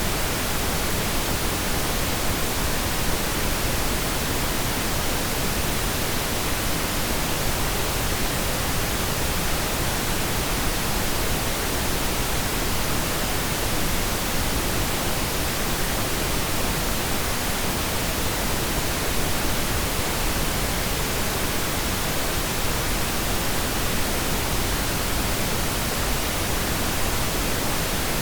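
Steady pink noise: an even, unchanging hiss with no breaks or distinct events.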